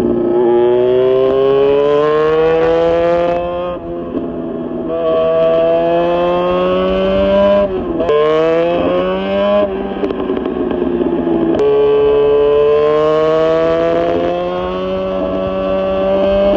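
Honda VFR400 NC30's V4 engine through a GP exhaust, accelerating up through the gears: the engine note climbs, drops sharply at each of about three shifts, and climbs again. Brief bursts of wind noise on the microphone come over the top.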